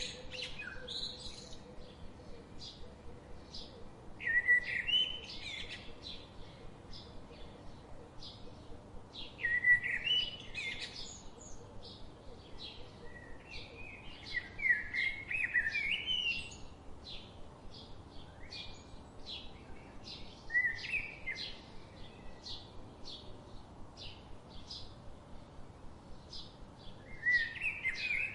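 Songbirds singing: a loud warbling song phrase comes every few seconds, about five times, over a steady scatter of short high chirps from other birds.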